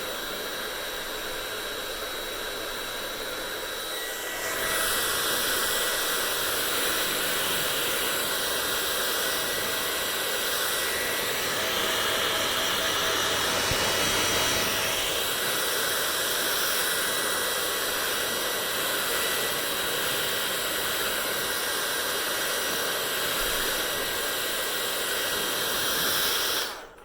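Hair dryer blowing steadily with a thin motor whine. About four and a half seconds in it steps up louder, and it cuts off suddenly at the very end.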